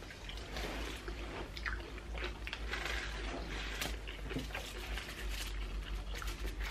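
People chewing and crunching food, with many short crisp clicks.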